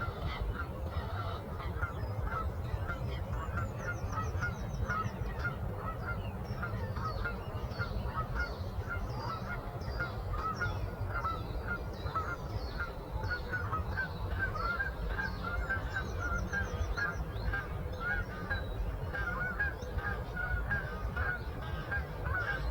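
A flock of birds calling continuously, with many short overlapping calls and a higher, faster trill twice, over a steady low rumble.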